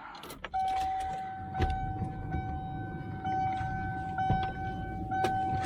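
A 1997 Ford F-350's cab warning chime sounding as one steady, unbroken tone from about half a second in, with a few sharp knocks from inside the cab over it.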